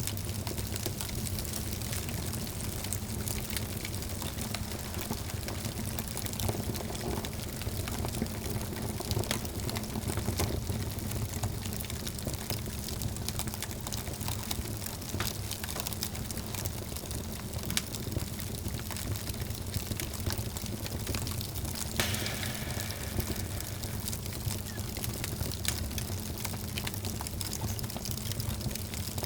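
Wood fire crackling, with frequent irregular pops and snaps over a steady low rumble of the flames; one sharper, louder pop about twenty-two seconds in.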